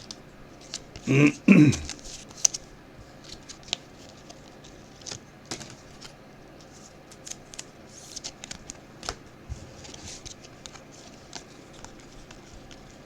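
Football trading cards being handled: a string of light, scattered clicks and rustles as cards are slid and flipped through by hand, with a brief voice about a second in.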